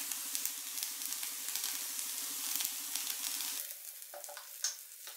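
Rava uttapam frying on a hot tawa: oil sizzling with small crackles and pops as oil is squeezed on around it, the second side cooking. The sizzle turns quieter a little over halfway through, with only scattered pops after.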